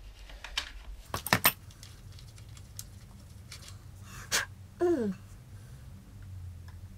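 Metal hand tools clinking and clattering against metal, loudest in a quick cluster about a second in, as work starts on loosening the exhaust's O2 sensor. A short low hum from a person falls in pitch about five seconds in.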